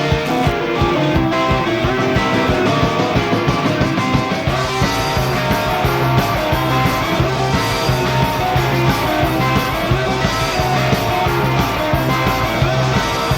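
Live rock-and-roll band playing an instrumental stretch: two electric guitars, electric bass and drums driving along on a steady beat.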